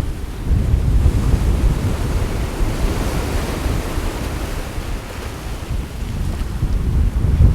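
Sea waves washing in, with gusty wind buffeting the microphone as a low rumble. The wind and surf swell about a second in, ease off around five to six seconds in, and build again near the end.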